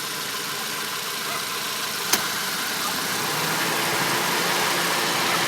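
A 1999 Mitsubishi Lancer GLXi's 1.6-litre single-overhead-cam 16-valve four-cylinder engine idling steadily with the hood open. There is a single sharp click about two seconds in.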